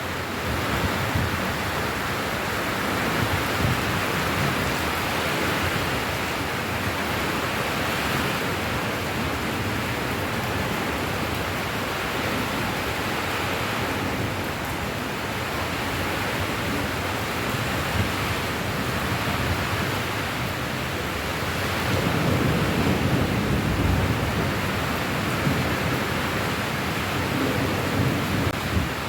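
Steady rain falling, a dense even hiss, with a deeper rumbling swell about two-thirds of the way through.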